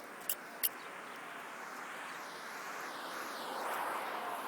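Two sharp clicks in the first second, then the rushing noise of a passing vehicle that swells toward the end.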